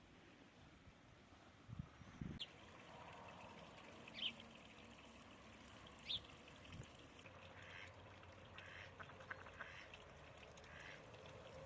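Faint bird calls: three short calls about two seconds apart, then a softer patter of short calls.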